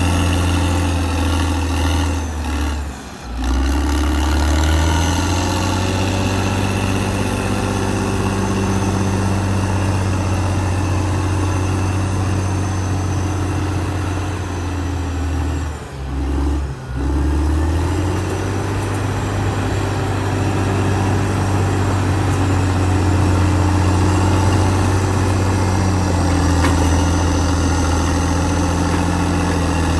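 Caterpillar D6R XL bulldozer's diesel engine running steadily. The engine note drops and shifts briefly about three seconds in, and again twice around the middle.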